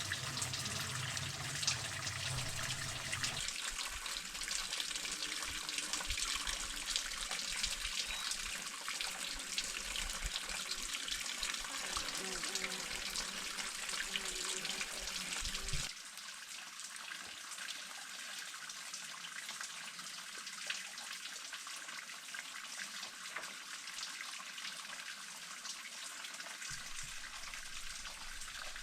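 Steady rush of running water with fine crackling detail. It drops suddenly to a lower level about halfway through.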